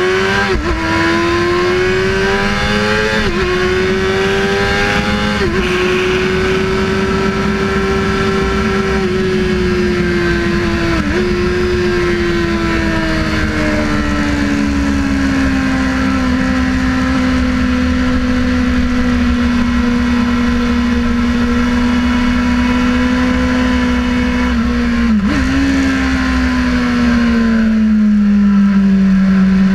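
Sportbike engine under way at track speed. Revs climb, with quick dips at gear changes three times in the first six seconds, then ease down and hold steady through a long stretch, with further brief shifts about 11 and 25 seconds in. A steady wind rush runs beneath it.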